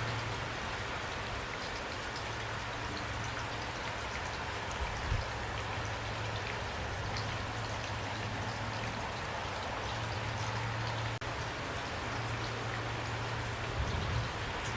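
Steady rain falling, an even hiss with many small drops ticking on a surface, over a low rumble that comes and goes. A soft low thump sounds about five seconds in and again near the end.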